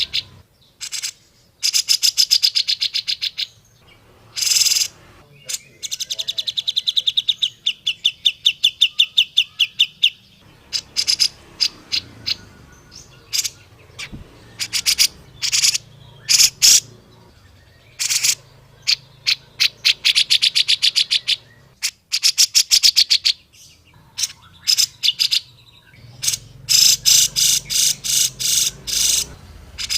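Grey-cheeked bulbul (cucak jenggot) calling: rapid trains of sharp, high, repeated notes in bursts of one to four seconds, separated by short pauses.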